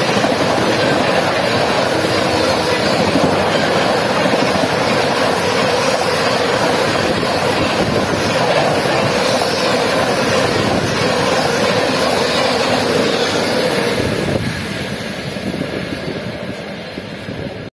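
Express train's passenger coaches rushing past at speed on wet rails: a loud, steady rush of wheels and air. It starts to fade about fourteen seconds in as the last coaches pass.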